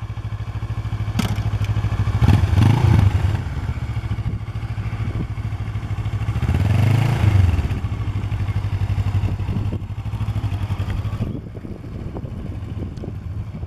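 Kawasaki Ninja 650R motorcycle engine running at low speed, its revs rising and falling twice as the learner rider works through slow figure-eight turns, then easing off near the end.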